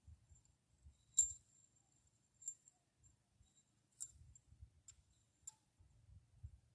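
Faint, sharp metallic clicks, about five spread unevenly, as steel pushrods are handled and set into a Ford Fairlane engine being rebuilt.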